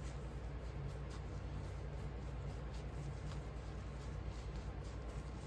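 A steady low electrical hum with a few faint clicks.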